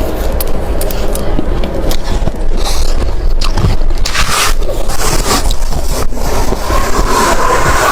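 Freezer frost being scraped and chewed close to the microphone: a dense run of crisp scrapes and crunches.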